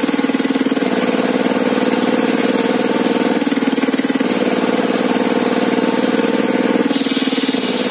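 Engine of a homemade sawmill table saw running steadily, its tone changing slightly a few times.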